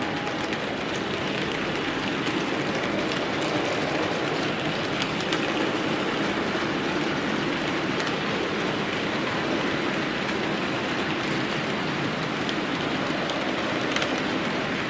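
HO-gauge model freight train, a D52 steam locomotive model hauling a long rake of wagons, rolling along the track: a steady rolling rumble of many small metal wheels on rail, with a few faint clicks.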